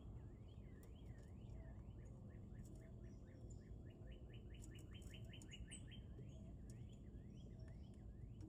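A songbird singing faintly over a steady low rumble: repeated slurred up-and-down whistles, a quick run of rising notes in the middle, then more slurred whistles.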